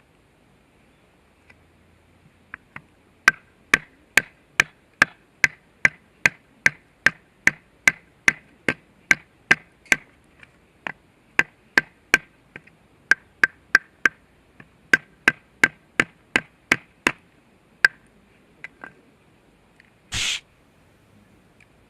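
A steady run of sharp knocks, a little over two a second, each with a short ringing tail, pausing briefly twice. Near the end there is one short rasp.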